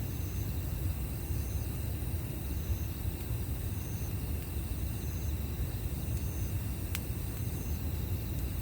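Campfire ambience outdoors at night: a steady low rumble under insects chirping in a regular rhythm, about once a second, with a single sharp crack from the fire near the end.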